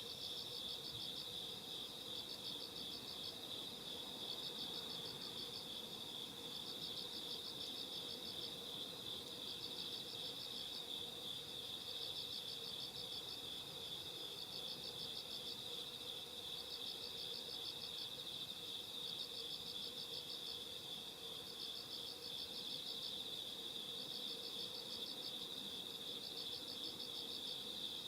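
Chorus of singing insects at night: a steady high-pitched trill with a higher, pulsed chirping laid over it in trains of a second or two, repeating with short gaps.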